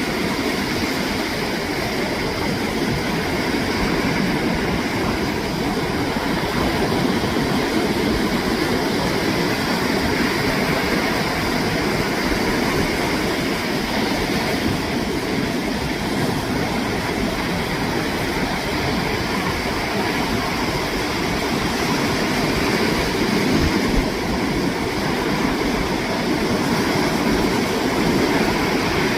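Ocean surf breaking and washing on a sandy beach, a continuous, steady rush of waves.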